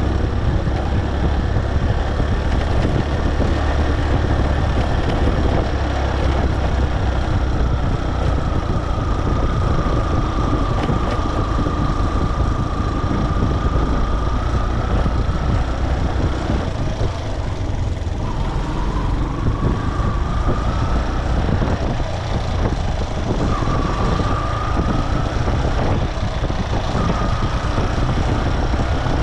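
Motorcycle riding on the road: the engine runs under a steady rumble of wind and road noise. A high whine comes and goes several times over the second half, rising slightly each time.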